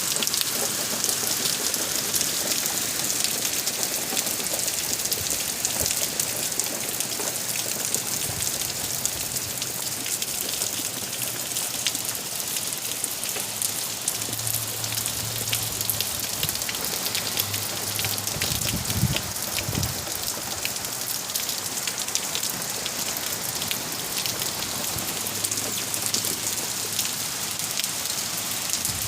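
Steady hard rain from Hurricane Elsa, a dense hiss of drops striking surfaces, unbroken throughout.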